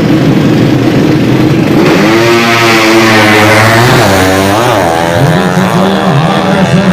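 Loud drag-race motorcycle engines of the 200cc class revving hard. About two seconds in the pitch climbs, drops and climbs again with the gear changes of a run, and later a note rises and falls again and again.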